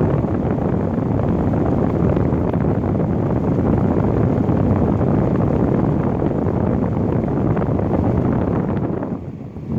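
LG room air conditioner running, its fan blowing a steady rush of air. The level dips briefly near the end, then comes back.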